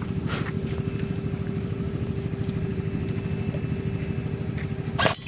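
An engine running steadily: a low, fast-pulsing rumble with a constant hum. A brief loud rush of noise comes near the end.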